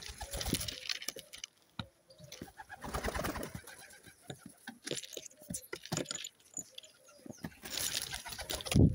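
Racing pigeons cooing, with bursts of rustling and scuffling and many sharp taps as they crowd around food, and one loud thump just before the end.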